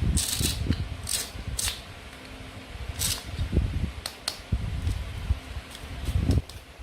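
Toy play food being handled and cut on a board: irregular low knocks, short scraping rasps and sharp plastic clicks, stopping shortly before the end.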